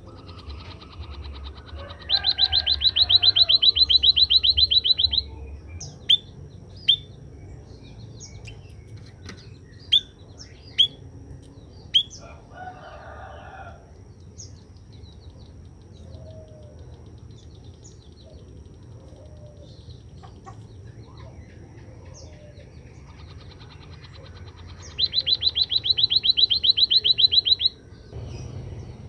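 Emprit kaji (white-headed munia) calling: two fast, high trills, one about two seconds in and one near the end, with a few sharp single chirps in between. A low steady hum runs underneath.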